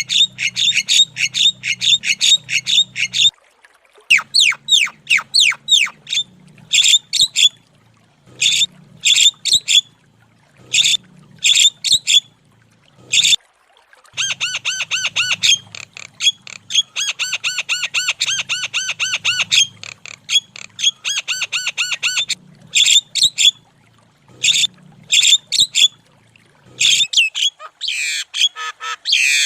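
Javan myna (jalak kebo) calling persistently, with loud bursts of harsh squawking and chattering notes repeated in quick succession and a longer unbroken run of rapid notes in the middle. A faint low hum sits underneath.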